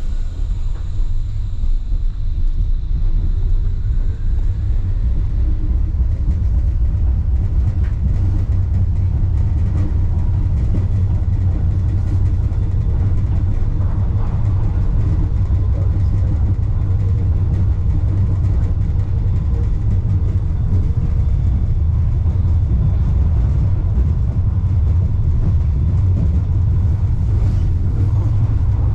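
Wuppertal Schwebebahn suspension railway car under way, heard on board: a loud, steady low rumble from the running gear on the overhead rail. It swells over the first second as the car gets moving, with a faint high whine during the first few seconds.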